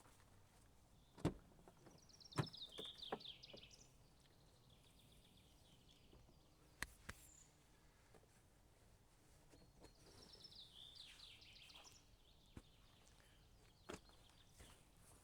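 A songbird singing two similar short phrases of quick high notes falling in pitch, about eight seconds apart, over a quiet forest background. A few sharp knocks or clicks, the loudest near the start, come in between.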